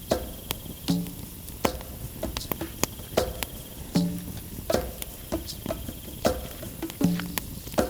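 Wood fire in a fire pit crackling, with irregular sharp pops and snaps a few times a second.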